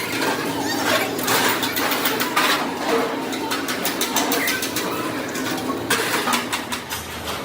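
Workshop clatter: many short knocks and clanks over a steady hiss, typical of sheet-steel fabrication work.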